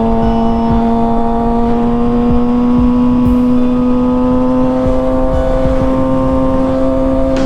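Kawasaki ZX-6R's inline-four engine running at a high, steady rpm at highway speed, its pitch creeping slowly upward as the bike gains speed. Wind rushes over the helmet microphone underneath.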